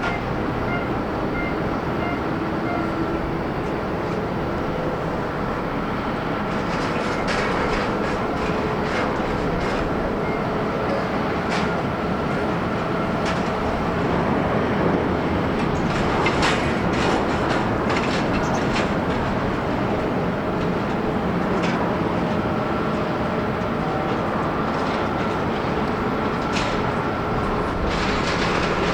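Jet airliner engines on landing approach: a steady rumble with a faint whine, swelling slightly about halfway through, with scattered sharp clicks.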